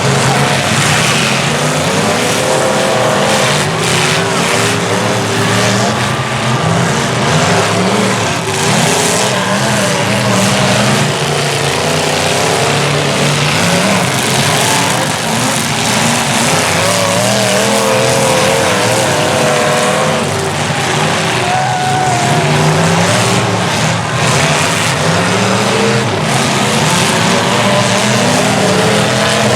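Several large trucks racing at once, their engines running hard and revving up and down without a break in a continuous loud roar.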